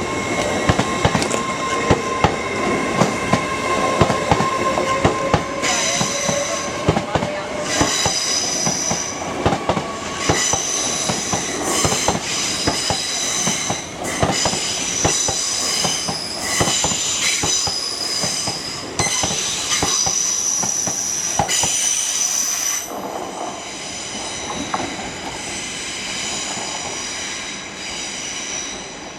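LNER Class 801 Azuma electric train pulling out slowly over crossover pointwork: wheels knock and clatter over the points, and the flanges squeal in high steady tones through the curves for much of the time before the sound fades.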